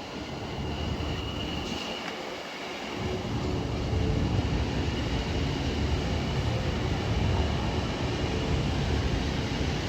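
A pair of Class 730 Aventra electric multiple units rolling into the platform. A low rumble of wheels and motors grows louder about three seconds in and then holds steady.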